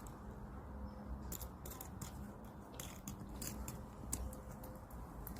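Birds pecking at and cracking seed: irregular sharp clicks and crunches, in quick runs over a faint steady hum.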